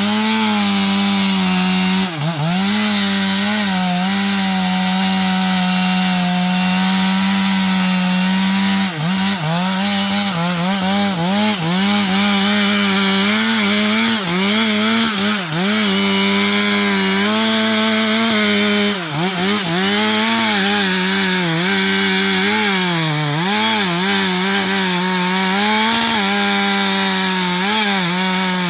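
Two-stroke chainsaw held at full throttle, cutting into wood. Its high steady engine note sags briefly and recovers every few seconds as the chain loads up in the cut.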